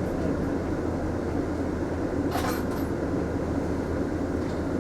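Mitsubishi Fuso Aerostar city bus heard from inside while driving: a steady low drone of engine and road noise, with a short rattle about halfway through.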